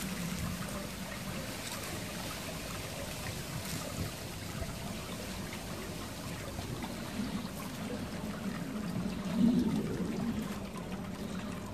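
Water trickling steadily, with one brief louder moment about nine and a half seconds in.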